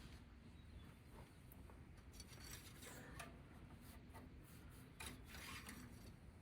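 Near silence with faint rubbing and scraping sounds, strongest about two to three seconds in and again about five seconds in.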